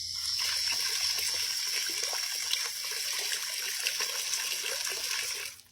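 Steady rush of running water, full of small splashes and crackles, that cuts off suddenly near the end.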